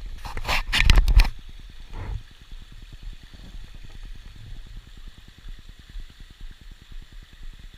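A loud burst of scraping, clattering noise lasting about a second, then a shorter one, over the steady rush of the river and a low fluttering rumble.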